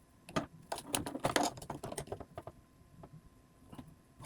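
Light, irregular clicks and taps of small-parts handling as an over-tightened M2.5 bolt on a 3D-printed robot plate is backed off about a quarter turn. Most of the clicks fall in the first two and a half seconds, with a few faint ones later.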